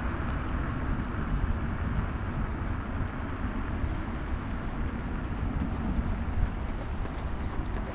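Steady rush of wind and low tyre rumble from an electric scooter riding along a paved path, with no pauses or sudden events.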